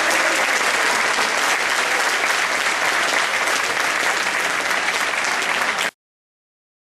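Theatre audience applauding steadily, ending abruptly about six seconds in where the recording cuts off.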